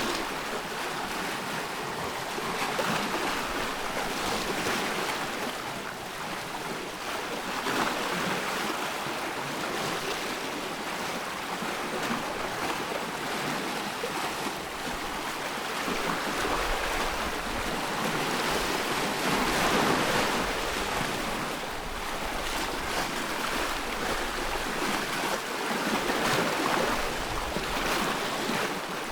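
Ocean surf: waves washing and breaking in a steady rush that swells and eases every few seconds.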